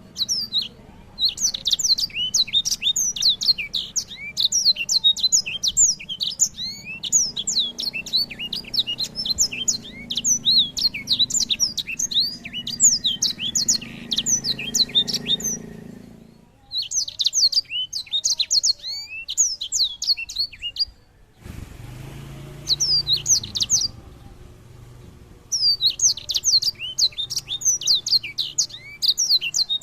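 A small songbird singing a rapid, chattering song of quick, high sweeping notes. It comes in several long bursts with brief pauses, over a faint low background hum.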